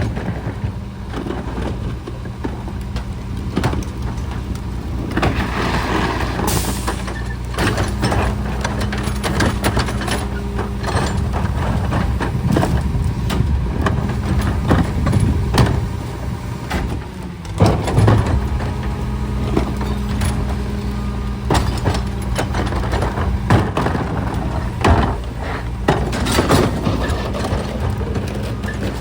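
Garbage truck's engine running steadily, its pitch stepping up slightly about seven seconds in, with repeated knocks and clanks throughout.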